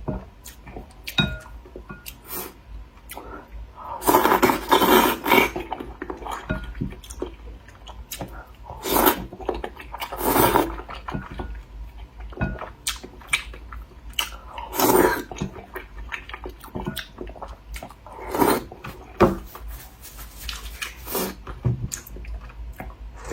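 Someone eating a bowl of hot duck blood vermicelli soup: about six loud slurps spread through, with quieter chewing and small clicks of utensils against the bowl in between.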